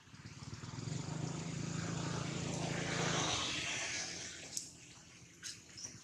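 A motor vehicle passing by, its engine growing louder and then fading away over about four seconds.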